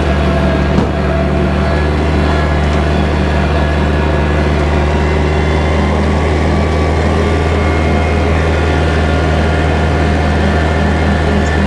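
Kubota tractor's diesel engine running steadily, with a single brief knock about a second in.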